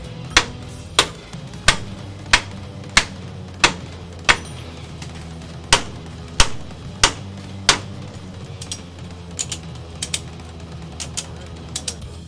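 Sharp metal knocks in a steady rhythm, about three every two seconds, with one short pause; they stop about eight seconds in and give way to lighter, irregular clicks. A steady low hum runs underneath.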